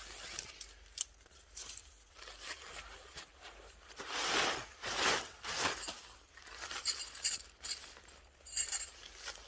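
Rustling and crackling, with a few louder swishes about four to six seconds in and scattered light clicks and ticks.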